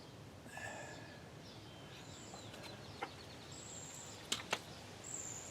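Small birds chirping and whistling, with three sharp clicks: one about three seconds in and two close together a little past four seconds.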